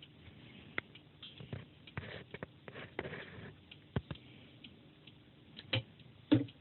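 Irregular clicks, pops and soft crackle picked up through the cartridge of a Micro DDX-1500 turntable on test play after repair, with no music yet. A louder pop comes near the end, followed by a sharper thump.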